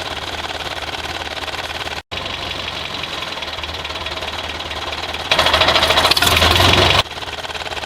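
Small motor of a DIY mini tractor model running steadily with a fast, even whir. The sound cuts out briefly about two seconds in and gets louder for a stretch of nearly two seconds near the end.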